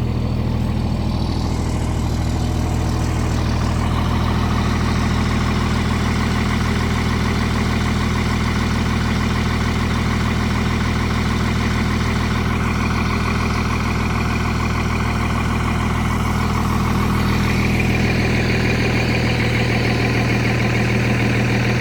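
Second-gen Dodge Ram's 24-valve Cummins 5.9 L inline-six turbo diesel idling steadily, still cold shortly after a cold start in 18-degree weather.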